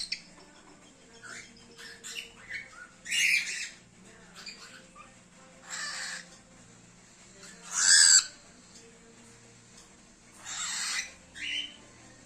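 An agitated cockatiel giving harsh, raspy calls in half-second bursts, four main ones with the loudest about eight seconds in, and a few short chirps between.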